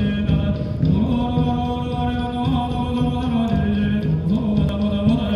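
Music of long, held chanted vocal notes, a low voice sustaining and sliding between pitches.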